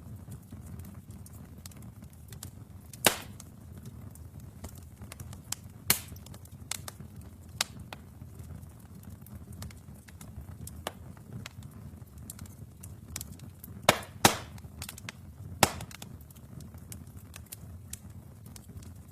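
Wood fire burning in a fireplace: a low steady rumble of flames with scattered crackles and a handful of sharp pops, the loudest about three seconds in and a close pair around fourteen seconds.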